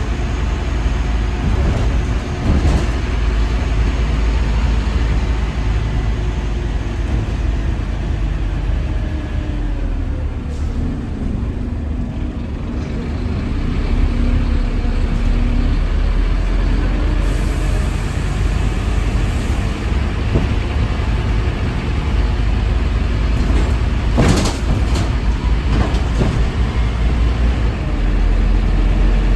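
Scania N230UD double-decker bus's diesel engine running, with a tone that slides slowly down in pitch over several seconds partway through. A short sharp air hiss from the air brakes sounds once, late on.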